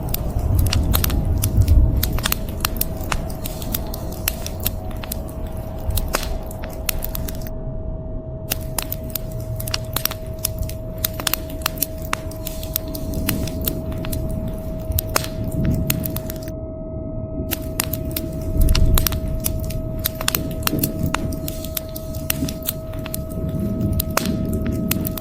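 Wood fire crackling with frequent sharp pops over a steady hiss of rain, with low rumbles of thunder about two seconds in and again past the middle. A faint steady tone hums underneath.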